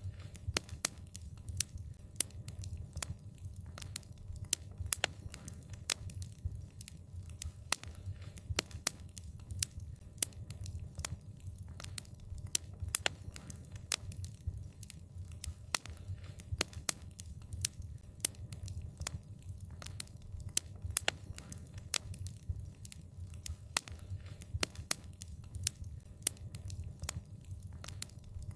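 Wood fire burning: a steady low rumble of flames with many sharp, irregular crackles and pops from the burning wood.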